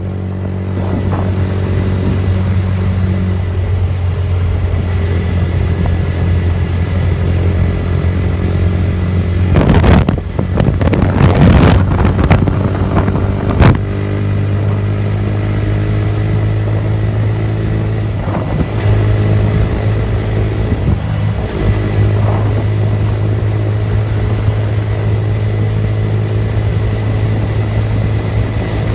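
TVS Apache RTR 160's single-cylinder four-stroke engine running through a Leo Vince aftermarket exhaust, loud and steady at cruising speed. Gusts of wind noise come in about a third of the way through, with one sharp click among them.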